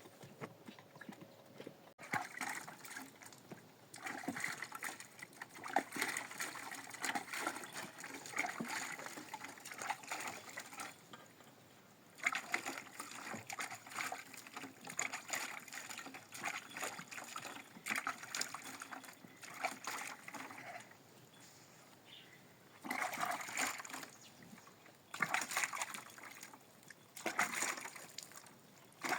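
Liquid splashing and trickling in repeated bouts, with short pauses between them.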